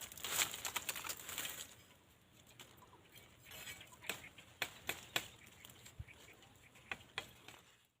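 Leafy branches rustling, then scattered sharp snaps and cracks as a stick of wood is broken off a shrub.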